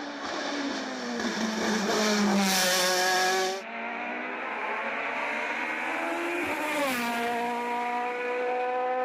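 Race car engine at full throttle, its note climbing and then dropping abruptly at gear changes, about twice, as the car accelerates up the hill-climb course; loudest a few seconds in as it passes closest.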